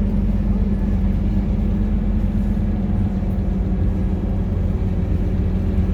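Scania K230UB bus's diesel engine running steadily with a low, even hum.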